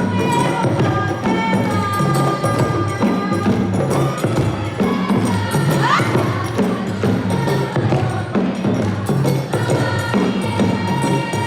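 African percussion music played by a parade band, with a steady beat of drums and hand percussion and a melody line above it. A short upward swoop in pitch comes about halfway through.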